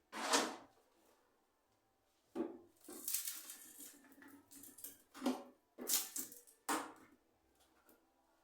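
Kitchen dishes and containers being handled: a string of separate clattering knocks, with a longer rustling stretch about three seconds in.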